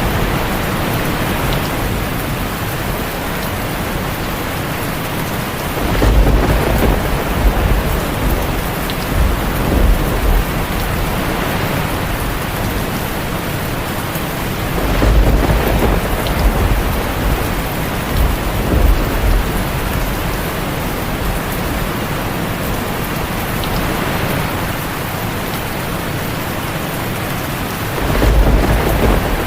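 Heavy rain falling steadily on a tin roof, with low rolls of thunder that swell about six seconds in, again around the middle, and once more near the end.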